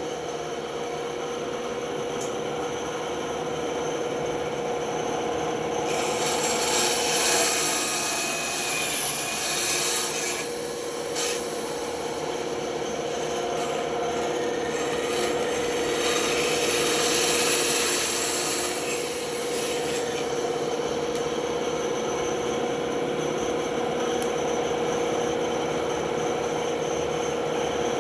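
Band saw running with a steady hum, its blade cutting wood, with louder hissing passes of the cut about 6 to 10 seconds in and again around 16 to 20 seconds.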